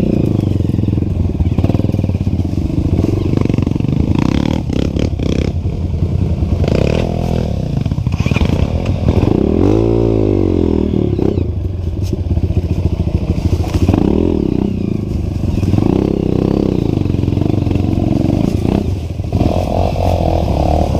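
Trail motorcycle engines running and being revved, the pitch rising and falling repeatedly, with one long rev swell about halfway through, and some clatter.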